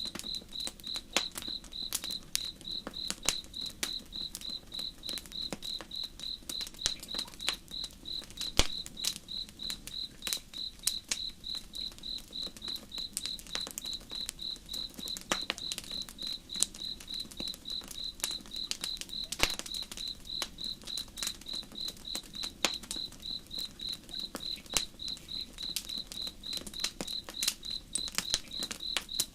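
A wood campfire crackling with sharp, irregular pops over a cricket's steady, evenly pulsed high chirping, with a faint low rush of river water beneath.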